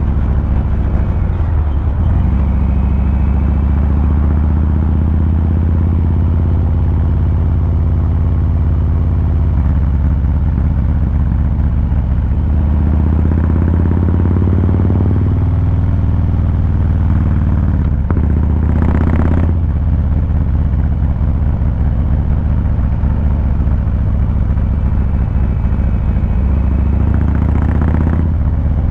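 2023 Harley-Davidson Fat Boy 114's Milwaukee-Eight V-twin running at riding speed, its exhaust note steady, with the revs and pitch shifting in the middle. Two brief bursts of rushing noise come about two-thirds of the way in and near the end.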